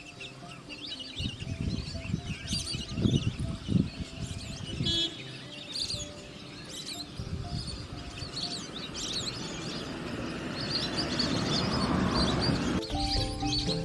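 Many small birds chirping and twittering in quick, overlapping calls. In the first few seconds there is some low rumbling, and near the end a hiss swells for a few seconds, then cuts off suddenly.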